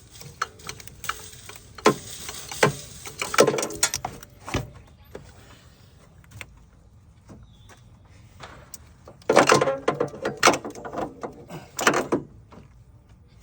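Hand tools working on an engine bolt: metal clanks, clicks and scrapes of a wrench or socket against the bolt and brackets, in two bursts of clatter with a quieter spell between, as a tight bolt is worked loose.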